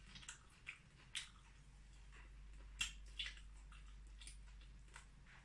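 Faint, scattered wet clicks and smacks of someone chewing food, over a low steady hum.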